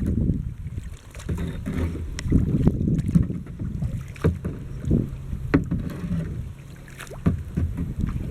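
Kayak paddle strokes in the water with several sharp knocks, under a low rumble of wind on the microphone.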